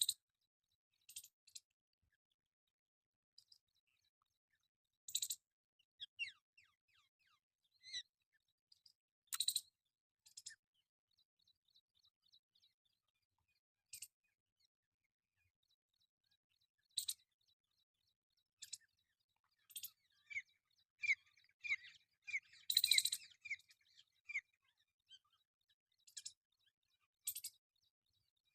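Parrot giving short, sharp, high calls and chirps at irregular intervals, with near silence between them; the calls come thicker and louder in a cluster about two-thirds of the way through.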